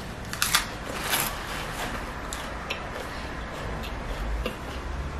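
Close-miked mouth sounds of biting into and chewing a raw red kale leaf: a few crisp crunches about half a second and a second in, then quieter chewing with faint mouth clicks.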